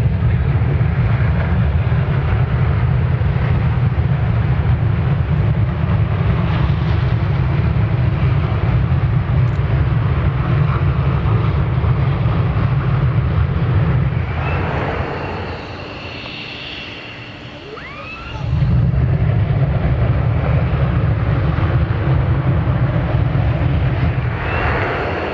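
F-15 fighter's twin turbofan engines running at high power during a pre-takeoff run-up, a loud steady roar. About fifteen seconds in it eases off for roughly three seconds, then comes back up to full roar.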